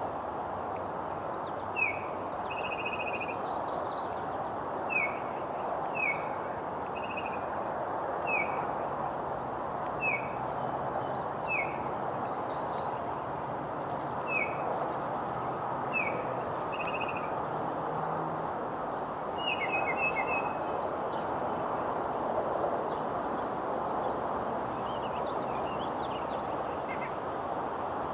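Songbirds calling: one short chirp repeated every second or two, with a few higher trilled phrases, over a steady background hiss.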